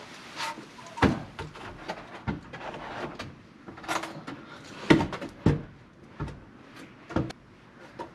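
A wooden shelf board knocking and bumping as it is pushed into place on its supports, with about half a dozen sharp, separate knocks; the board is a tight fit.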